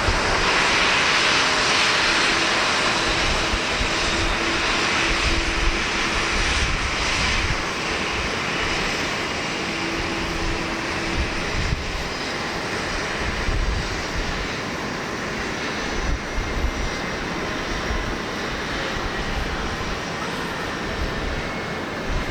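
Large jet airliner's engines at takeoff power, the noise slowly fading as the aircraft climbs away. Gusty wind buffets the microphone.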